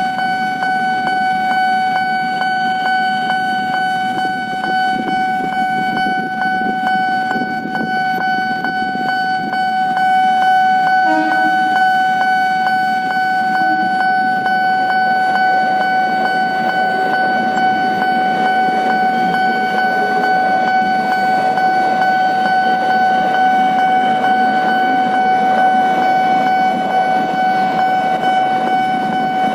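Level crossing warning signal sounding continuously as one steady electronic tone, over the rumble of a KRL electric commuter train that grows louder about ten seconds in as the train runs past. A short toot comes shortly after.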